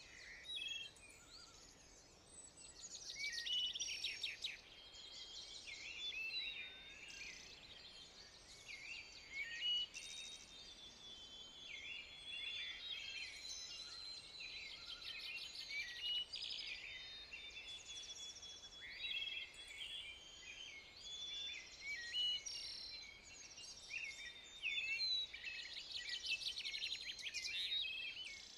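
Several woodland songbirds singing and chirping at once: a continuous chorus of short high calls, with rapid trills about three seconds in and again near the end.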